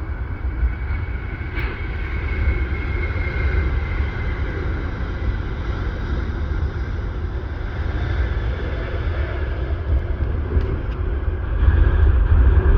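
Jet airliner engines running with a steady whine over a low rumble, growing louder near the end.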